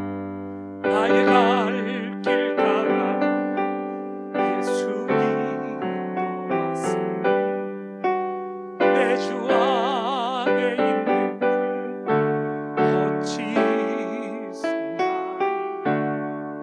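Keyboard, sounding like an electric piano, playing a slow, gentle accompaniment: chords and single notes struck about once a second and left to fade, with a few wavering high notes.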